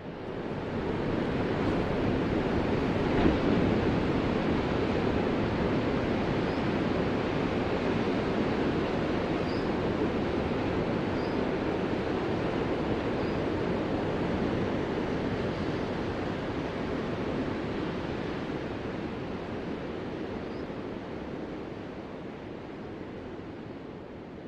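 Ocean surf: a steady rush of breaking waves that builds over the first couple of seconds, holds, then slowly fades toward the end.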